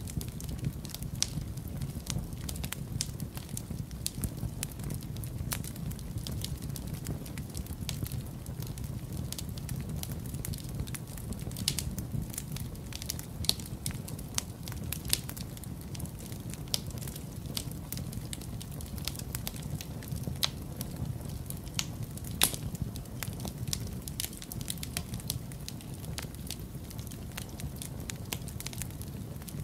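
Wood fire burning in a fireplace: a steady low rumble of the flames with irregular sharp crackles and pops, a couple of louder pops standing out.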